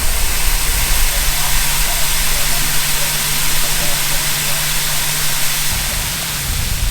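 Grain truck idling while a tipped trailer empties grain into the receival grid: a steady rushing hiss over the low engine hum, and the hum drops away about six seconds in.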